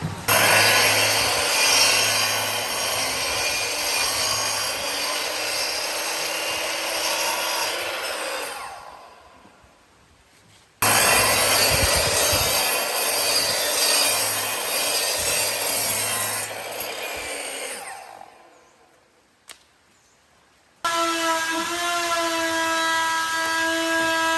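An electric power tool working wood in two long runs, each winding down as it is switched off. It starts again near the end and runs with a steady whine.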